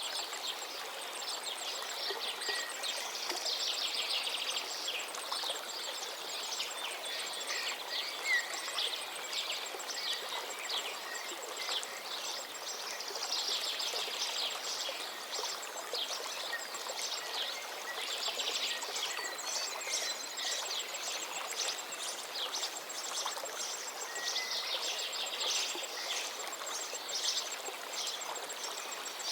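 A forest stream running steadily under a chorus of songbirds singing fast trills and chirps, with a thin, high repeated ticking call at times.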